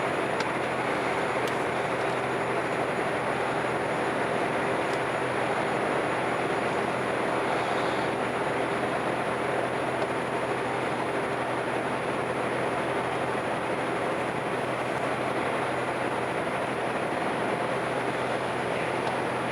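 A ship's engines droning steadily under an even rushing noise, with a constant low hum and no breaks.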